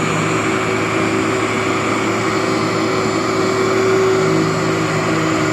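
Workhorse vacuum cleaner running steadily as it is passed over a dirty rug, a constant rushing whine with a steady hum in it.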